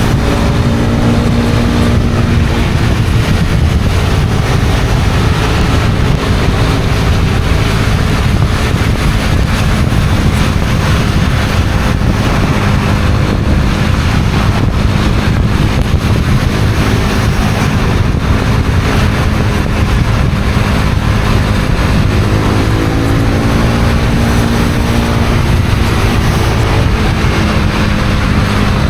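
Honda CB250R's single-cylinder 250 cc engine running under way, with heavy wind rush over the microphone. The engine pitch rises and falls near the start and again about three-quarters of the way through.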